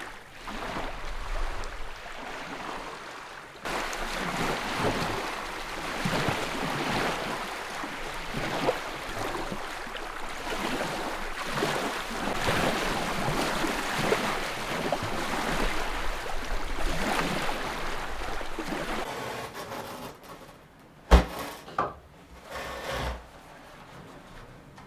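Continuous irregular scraping and rustling, like something being rubbed or dragged over a rough surface. It stops about 19 s in and is followed by one sharp loud knock and a few softer knocks.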